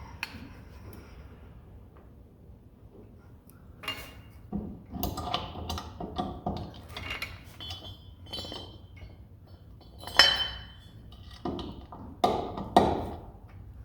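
Metal clinks and knocks as a steel safety pin with a ball detent is worked into the lined-up holes of the tail hold-down's pipe. The taps are irregular and start after a few quiet seconds, with the loudest about ten seconds in and two more near the end.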